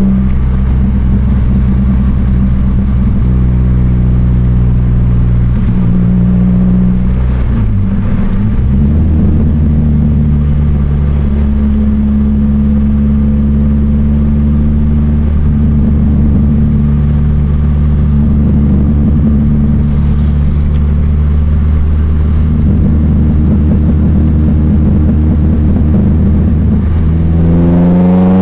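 2000 Chevrolet Cavalier's four-cylinder engine running steadily under way, heard from inside the cabin. Its pitch dips briefly about eight seconds in and rises near the end as the car accelerates.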